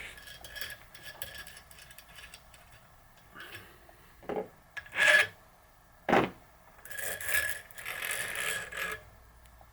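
Metal parts of a home-made bearing press, a nut and washers, being handled and turned: scattered light clicks, a loud short scrape about five seconds in, a sharp knock just after six seconds, and a longer rough scraping from about seven to nine seconds.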